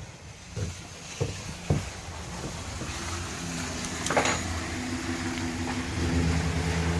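A few light knocks in the first two seconds, then a steady engine hum that grows louder from about three seconds in.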